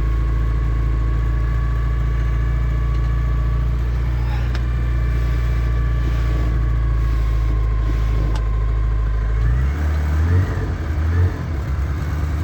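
1960 Morris Minor's A-series four-cylinder engine running fast and steady just after a cold start on full choke, revs held up because it won't tick over cold, with a steady whine over it. Near the end the revs drop and it runs unevenly for a moment before settling into a lower beat.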